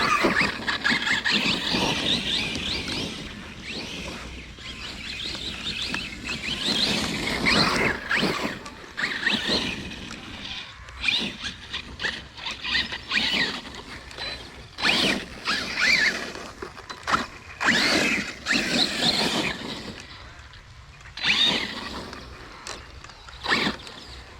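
Arrma Kraton 6S brushless RC truck's motor whining, rising and falling in repeated bursts of throttle, with its tyres churning through wet, muddy grass.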